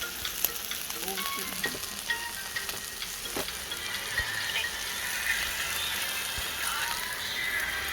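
Pork belly sizzling on a grill over a wood stove: a steady frying hiss with scattered small pops and spits.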